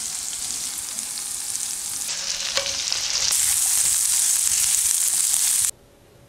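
Chicken pieces frying in hot oil in a pan, a steady sizzle with a spatula stirring and scraping through them. The sizzle gets louder about halfway through, then cuts off suddenly near the end.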